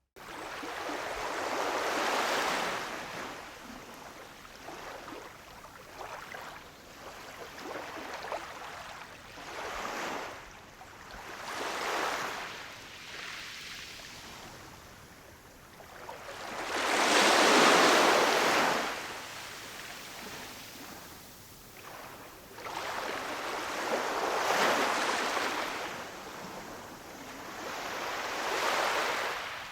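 Ocean waves breaking and washing up a shore, rising and falling in swells every few seconds, the loudest wave about halfway through.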